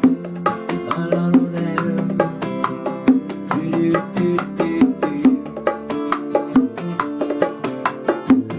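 Instrumental bachata passage without singing: bongos playing a steady, quick pattern over plucked guitar.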